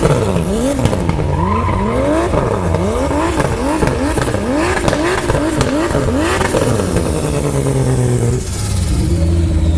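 Turbocharged M52 inline-six of a BMW E36 328i drift car, revved up and down over and over in quick sweeps of pitch. About two-thirds of the way through the revs fall away and it settles into a steady low run.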